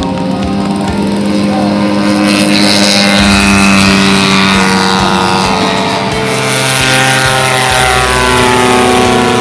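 A propeller-driven R/C model airplane's engine flying past, its pitch falling as it goes by, over background music.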